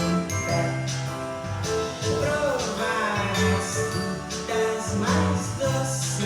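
A children's song: singing over instrumental accompaniment with sustained bass notes.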